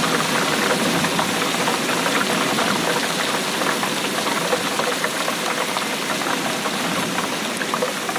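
Steady rainfall: a dense, continuous patter of many drops.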